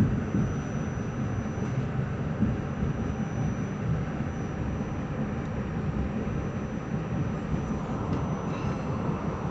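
NYC subway Q train running, a steady rumble of wheels on the rails heard from inside a moving car, with a thin, high, steady whine over it.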